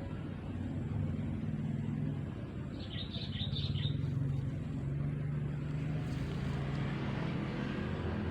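Steady low hum of a vehicle engine, with a short burst of bird chirps about three seconds in.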